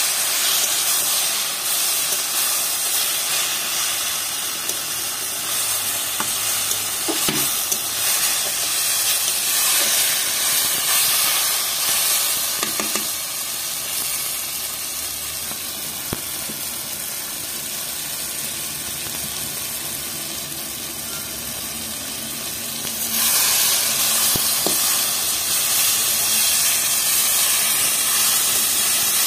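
Spinach and boiled brinjal sizzling as they stir-fry in a kadhai, with a steady hiss and a few short scrapes of a metal spatula against the pan. The sizzle eases off for a while in the middle and grows louder again in the last quarter.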